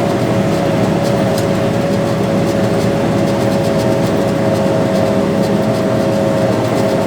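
Farm tractor's diesel engine running steadily under load while pulling a soybean planter, with a steady high whine over the engine noise.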